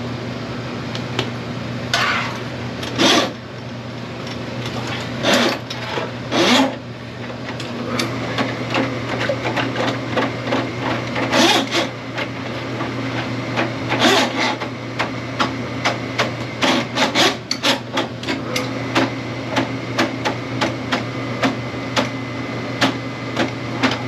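Drain-snake work: a steady machine hum under repeated sharp metal knocks and clatter. The knocks come sparsely at first, then several a second in the second half.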